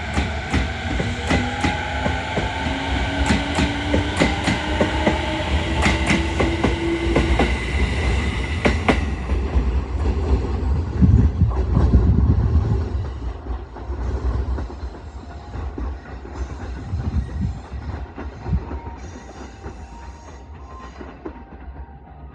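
Electric commuter train pulling out of the station: its traction motors whine upward in pitch as it accelerates, with wheels clicking over rail joints. The rumble swells about halfway through, then fades as the train draws away.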